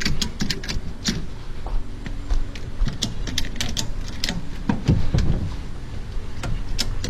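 Ratchet straps being cranked tight, bursts of sharp ratchet clicks over a low steady rumble.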